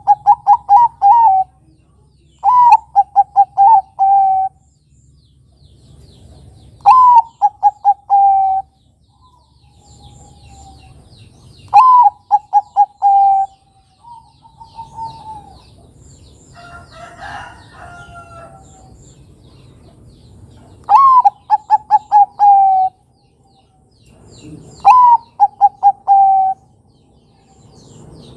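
Zebra dove (perkutut, Bangkok type) singing: six repeated phrases a few seconds apart, each a rising opening note followed by a quick run of about five clipped coos. Faint chirps of small birds in the background, and a different call about two thirds of the way through.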